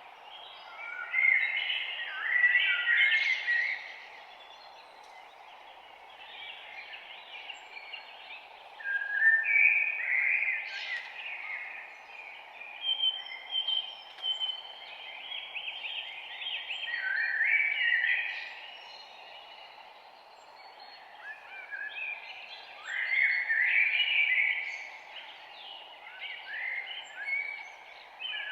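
Several small songbirds singing, bursts of rapid chirping and twittering phrases coming and going every few seconds, over a steady soft background hiss.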